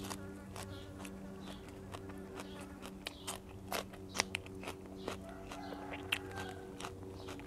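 Close-up chewing of a mouthful of fresh raw leaves wrapped around raw beef, with irregular crisp crunches.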